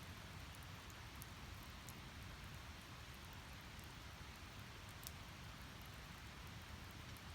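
Wood fire burning in a fire pit: a faint steady rush of flame with scattered small crackles and pops, one sharper pop about five seconds in.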